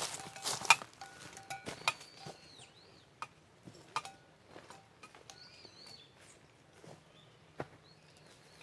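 A bird gives a few short, high chirps about two and five seconds in, among scattered small clicks and taps. A brief rush of noise, like pouring, fills the first second.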